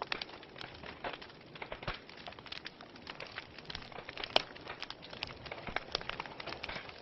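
Wood fire crackling: a steady soft hiss with many irregular sharp pops and snaps, the loudest pop about four and a half seconds in.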